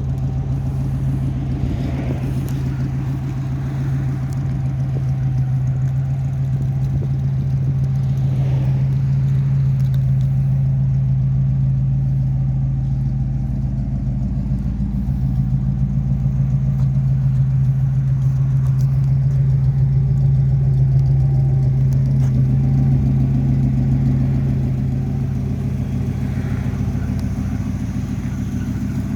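1958 Chevrolet Bel Air's 283 V8 engine running steadily, its note getting a little louder twice.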